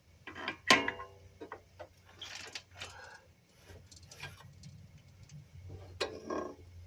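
Metal clinks and knocks of bolts and hand tools being handled while fitting a car's front suspension parts, the loudest a short ringing clank just under a second in.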